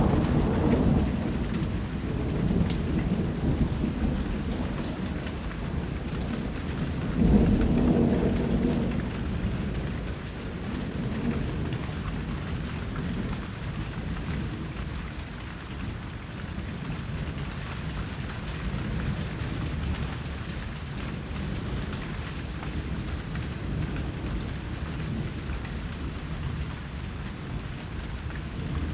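Steady rain with thunder: a roll of thunder at the start and a louder one about seven seconds in, each dying away, then rain alone.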